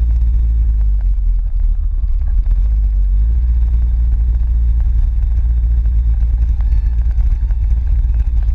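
Low, steady rumble of a motor vehicle's engine on the move, with heavy low wind noise; the engine's pitch eases down in the first second and comes back steady from about three seconds in.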